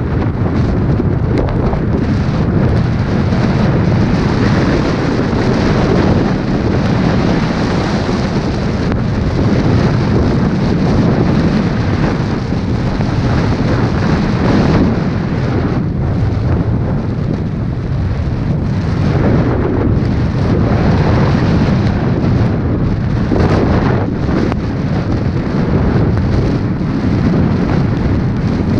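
Strong mountain wind buffeting the microphone: a loud, continuous low rumble that swells and eases with the gusts.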